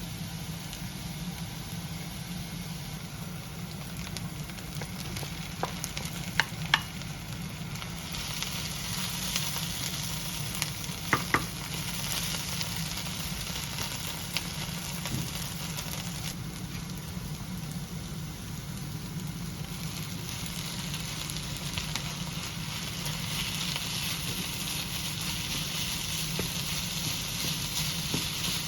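Food frying and sizzling in a pan, with a steady low hum beneath. A few sharp metallic clinks sound about six and eleven seconds in, like a utensil striking the pan, and the sizzle grows louder about eight seconds in and again near the end.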